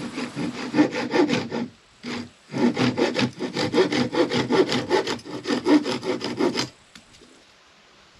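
Wood being cut by hand with a saw: quick, regular back-and-forth strokes, with a brief pause about two seconds in, stopping shortly before the end.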